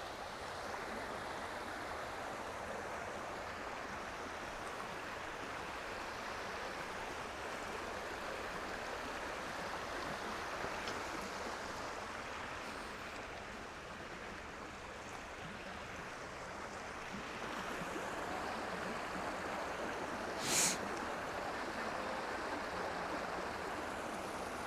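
Creek water rushing steadily over small rapids. A single short sharp click sounds near the end.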